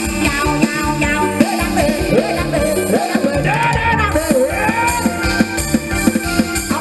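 Mor lam sing band music played through an amplified sound system: a steady drum-kit beat and bass under a bending melodic line, sung or played, from about one and a half to five seconds in.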